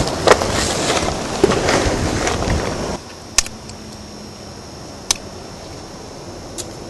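Crunching and crackling of dry forest litter, like leaves and twigs being trodden, that stops abruptly about three seconds in. After it come three sharp isolated snaps a second or so apart over a faint steady high whine.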